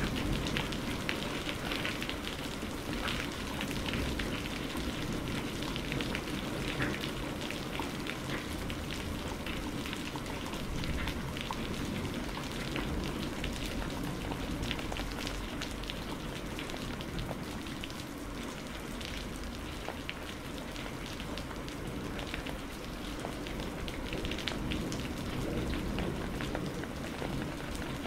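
Steady rain falling, with many separate drop hits heard through the even wash of the downpour and a low, steady rumble underneath.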